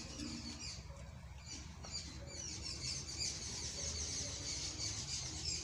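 Small birds chirping, many short high-pitched calls in quick, irregular succession.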